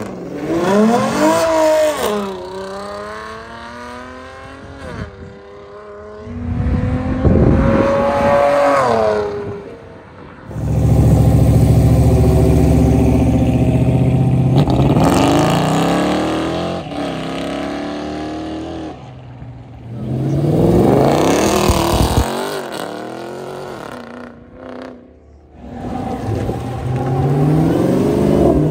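Mopar performance cars' engines revving and accelerating hard in a string of short separate clips, the pitch climbing each time the throttle opens, with one stretch of steady, loud running in the middle.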